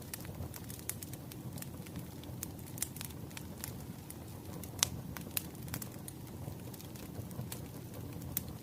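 Wood fire crackling: irregular sharp pops and snaps over a steady low rumble of burning logs, with one louder pop about five seconds in.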